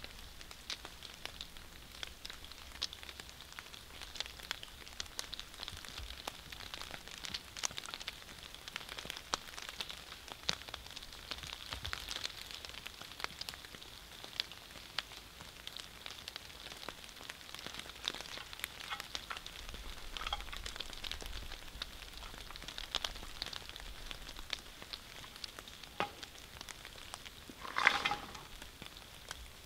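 Rain falling steadily, with many scattered sharp drop ticks, and a brief louder sound near the end.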